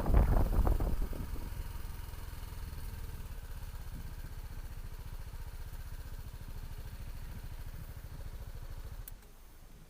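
Motorcycle engine pulling away: loud for about the first second, then fainter and steady with an even low beat of the cylinders firing. A click about nine seconds in, after which the engine sound drops away.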